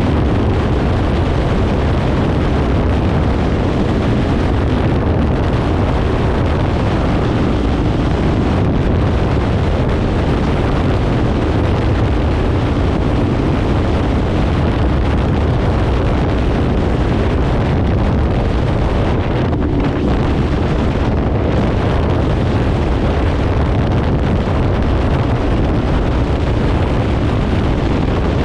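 Kawasaki Ninja 500 parallel-twin engine running through an aftermarket Leo Vince exhaust while the motorcycle rides along, with wind rushing over the microphone. The level stays steady throughout.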